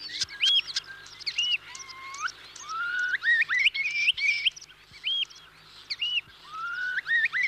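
Common starling singing: a chattering string of whistles, repeated arched notes and rising slurred whistles, which includes its mimicked calls of a curlew and an oystercatcher.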